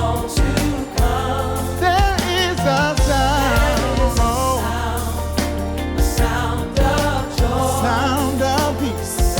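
Live gospel worship music: a singer's voice weaving wavering runs over a band with a steady, heavy bass.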